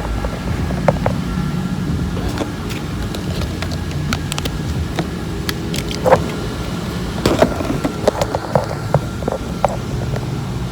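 Trash and clutter being cleared out of a car: scattered clicks and knocks of objects being picked up and handled, the loudest about six seconds in and in a cluster a second later, over a steady low hum.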